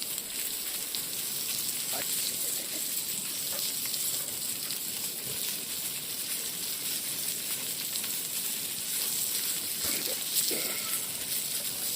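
Food sizzling and frying on an overheated iron griddle plate over a wood fire: a steady hiss with small scattered pops.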